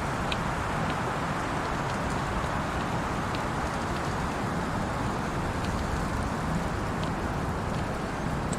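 Steady rushing wind through the trees, with sparse faint crackles from a campfire.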